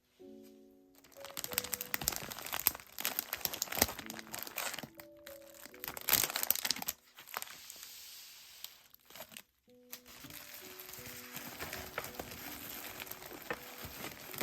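Paper crinkling and rustling close up as stationery is handled, in uneven bursts that stop short twice. Soft background music plays underneath.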